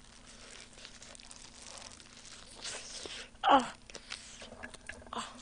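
Quiet close-miked eating: sauce-coated fried chicken being bitten, torn and chewed, with faint wet crackles and clicks. A short hum from the eater comes about three and a half seconds in.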